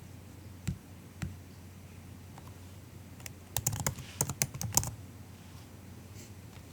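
Soft typing on a MacBook keyboard: two single clicks in the first second or so, then a quick run of about a dozen keystrokes in the middle.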